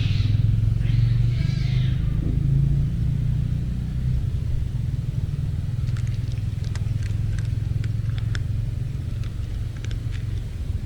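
A steady low rumble, with two short harsh cat cries in the first two seconds, from cats fighting. From about six seconds in comes a run of sharp, crunching clicks: a cat chewing dry food.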